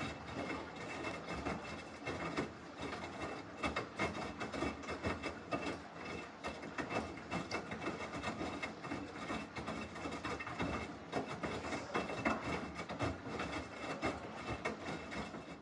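Samsung washing machine running a wash cycle, its drum turning the load with a continuous uneven churning, rubbing and clicking.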